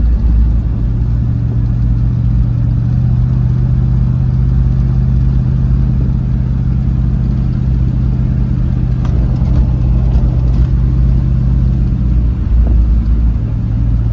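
Brand new Chevrolet 350 small-block V8 in a hot-rodded Ford Model A pickup running steadily at road speed, heard from inside the cab. Just engine noise, with no rattles, bangs or squeaks.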